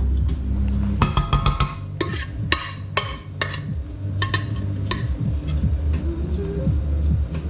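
Kitchen utensils clicking and knocking against a pot and dishes, a quick run of sharp taps between about one and five seconds in, over a steady low hum.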